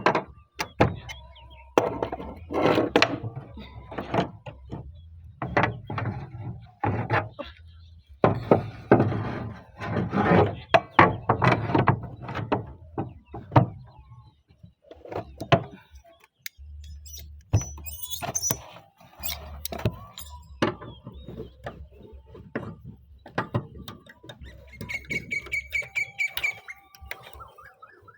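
Knocks and clatter of roof repair work on roof sheets and their fixings, with a brief high squeal about 25 seconds in.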